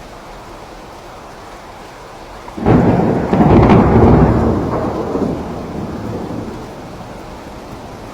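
Steady rain with a thunderclap about a third of the way in: a sudden loud rumble that rolls on and fades away over several seconds.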